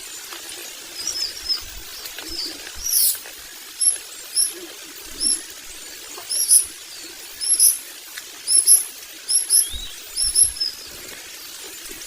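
Long-tailed shrike (cendet) chicks giving short, high, squeaky calls again and again, a dozen or so at irregular intervals, the way young shrikes call to be fed.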